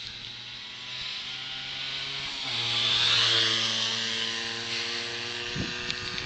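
Honda MBX 80 two-stroke single-cylinder motorcycle engine running at steady speed as the bike passes by. It grows louder to a peak about three seconds in, and its pitch drops as it goes past, with tyre hiss on the wet road.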